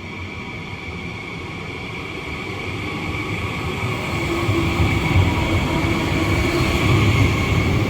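High-speed train approaching along the platform, its rumble growing steadily louder, with a steady high tone over it.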